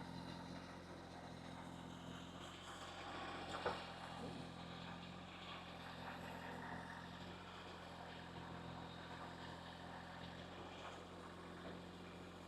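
Kubota B2301 compact tractor's three-cylinder diesel engine running steadily at constant speed. A single sharp knock comes a little under four seconds in.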